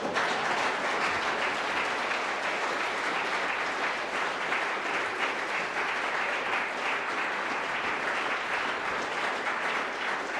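Live audience applauding, with dense clapping that starts abruptly and carries on steadily.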